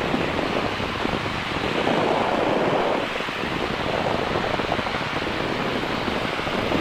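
Steady rushing wind noise on the microphone in flight, with no distinct rotor beat or engine tone standing out.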